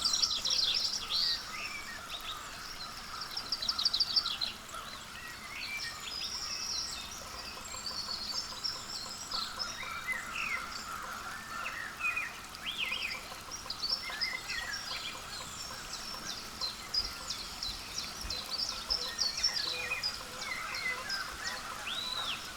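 Many wild birds calling together: high chirps and rapid trills, loudest at the start and again about four seconds in, with a single rising-and-falling call near the end, over steady outdoor background noise.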